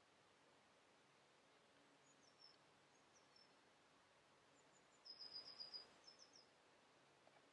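Songbird singing in the woodland: faint high chirps, then about five seconds in a quick run of high repeated notes followed by a few more, over a very quiet background.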